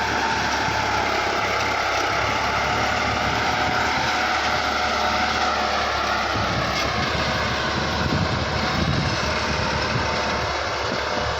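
New Holland 7510 tractor's diesel engine running steadily under load while pulling a three-bottom mouldboard plough. The engine note dips slightly about halfway through and the low rumble grows for a few seconds before easing.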